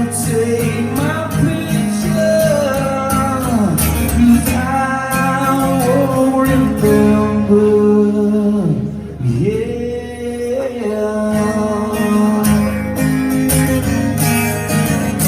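A song performed live: a man singing over a strummed acoustic guitar.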